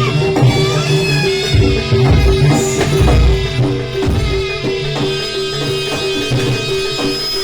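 Live Javanese jaranan ensemble music, with hand drums and pitched percussion over a steady repeating beat. A sliding melodic line sits above the beat, and deep low strokes come in about two to three seconds in.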